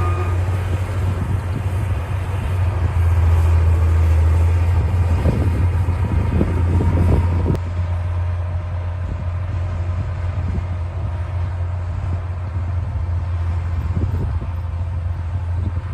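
D60 bulldozer's diesel engine running steadily with a deep drone, with a cluster of knocks and clanks a little before the middle. About halfway through, the sound abruptly becomes quieter and duller and the engine runs on.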